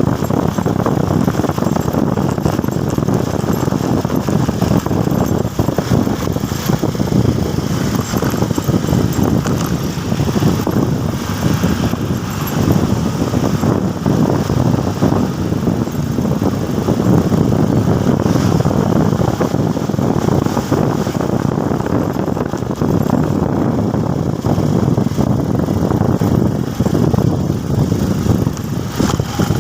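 Motorcycle under way: a steady mix of engine, road and wind noise with no sharp events.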